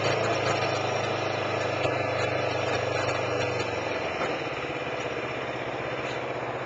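Kawasaki Ninja 250R's parallel-twin engine running steadily at low speed, heard from on the bike, with the engine note dropping slightly about four seconds in.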